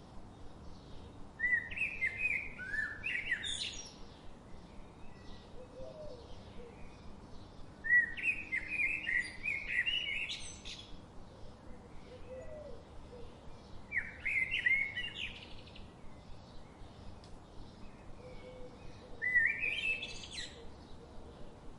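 A songbird singing four short, fast phrases of high chirping notes, each about two seconds long and coming roughly every six seconds, over a steady background hiss with fainter, regular chirps.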